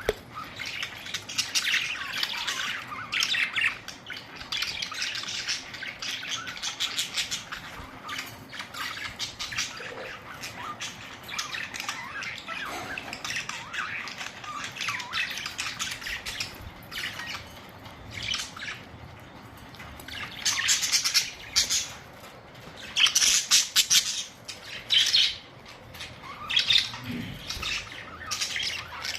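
Budgerigars chattering with rapid chirps and squawks, coming in uneven bursts that are loudest in the last third.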